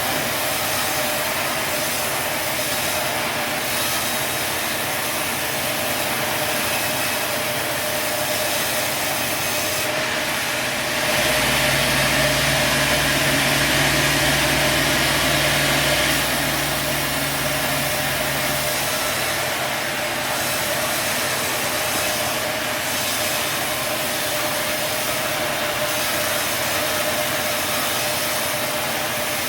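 Sawmill running steadily with a constant hum while sawing a log; the sound grows louder and harsher for about five seconds in the middle, then settles back.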